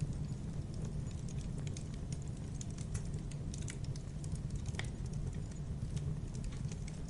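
Campfire crackling: a steady low rumble of burning wood with many small, irregular pops and snaps, and one sharper snap just under five seconds in.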